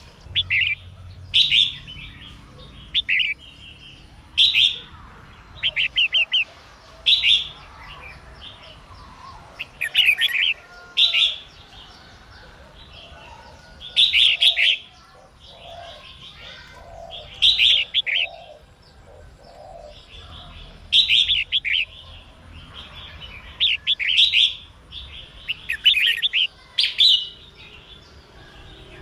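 Female red-whiskered bulbul singing in short, bright chirping phrases, repeated every one to three seconds. This is the female song that keepers play to rouse male bulbuls into singing.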